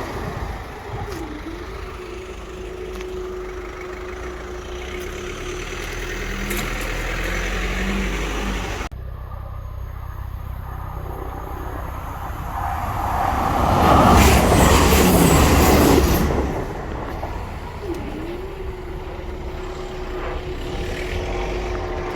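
Road traffic: vehicles running, with one passing loudly about 13 to 16 seconds in, over a steady hum.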